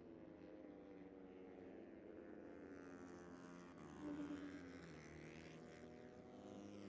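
Faint sound of a Moto3 racing motorcycle's 250 cc single-cylinder four-stroke engine, its pitch wavering up and down, a little louder about four seconds in.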